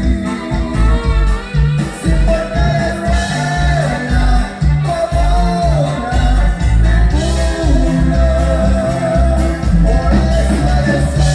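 Norteño band music with a voice singing the melody over a steady, pulsing bass line.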